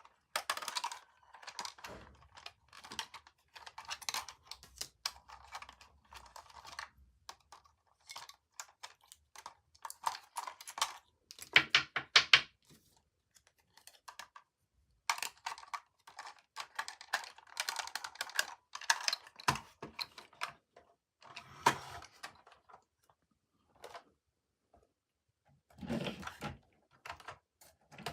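Toy packaging being handled and opened by hand: bursts of rapid small clicks and crackles of plastic and cardboard, with short pauses between them.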